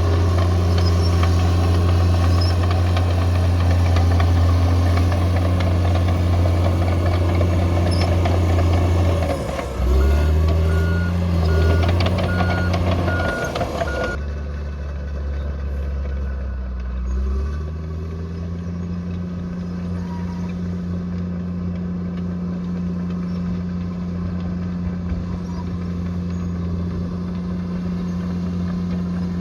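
Bulldozer's diesel engine running steadily. About ten seconds in the engine note dips and changes, and a reversing alarm beeps about twice a second for some four seconds. Later the engine speeds up and holds a steady higher note.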